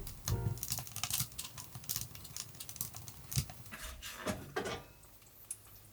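A run of light, irregular clicks and taps, thinning out after about four and a half seconds, over faint background music.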